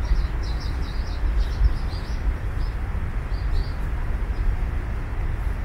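Small birds chirping in quick, short high calls, thickest in the first couple of seconds, over a steady low rumble.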